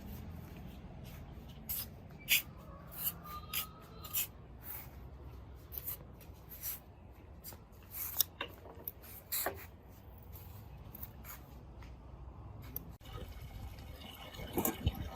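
Scattered light clicks and taps at irregular intervals over a faint low hum.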